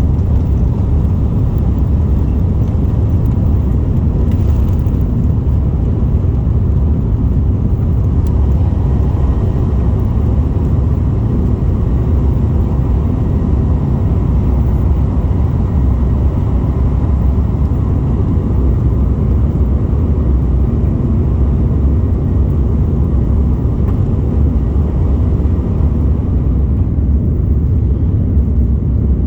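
Airbus A330-200 jet engines and rushing air heard from inside the passenger cabin: a loud, steady low rumble that holds at one level throughout.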